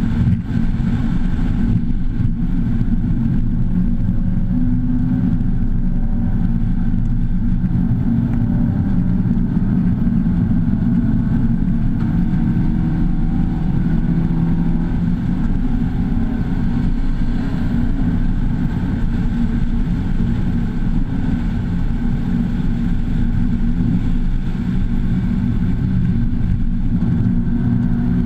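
Mazda2's 1.5-litre four-cylinder engine running hard at track speed, heard from inside the cabin over steady road and wind noise. The engine note climbs and drops a few times as the car accelerates and changes gear.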